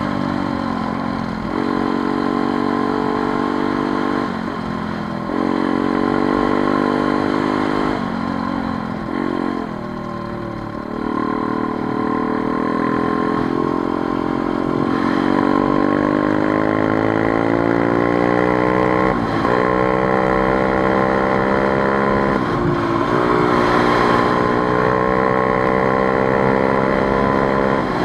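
Motorcycle engine under way, pitch climbing as it accelerates and dropping back at each gear change, about five times.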